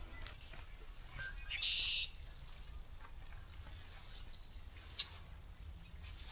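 A bird calling: one short, high, harsh note about two seconds in, then a thin high whistle held for about a second, over a steady low rumble of wind and outdoor background.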